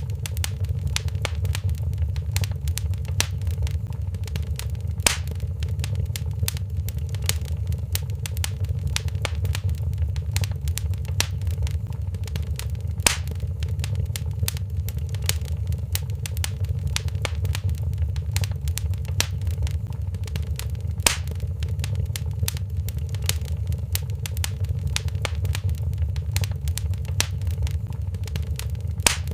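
Wood fire crackling in a fireplace: a steady low rumble of flames under dense small crackles, with a louder single pop about every eight seconds.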